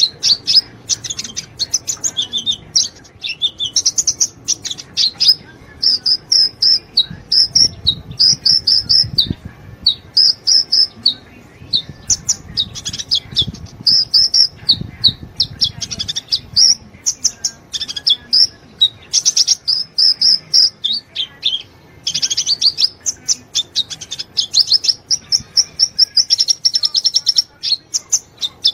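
A sunbird singing continuously: fast, high-pitched twittering phrases of sharp chirps and trills, broken only by brief pauses.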